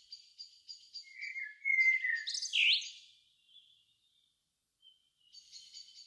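Songbirds singing. A fast run of repeated high notes is followed, about one and a half seconds in, by a louder phrase of lower whistled notes and quick sweeping notes. Near the end the run of repeated high notes comes back.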